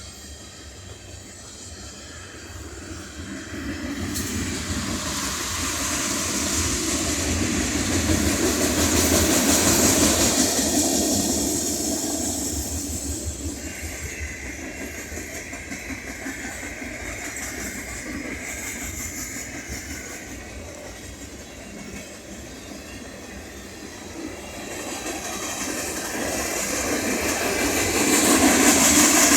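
Freight cars of a Union Pacific manifest train rolling past, wheels clacking over the rail joints. The rumble swells loud twice, with a faint steady high tone for several seconds midway.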